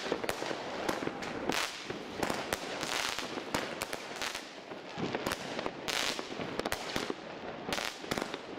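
Geisha Fireworks 'Sky Evil' firework cake firing in the air: shots launching and bursting into crackling stars, a dense, unbroken string of sharp pops and bangs.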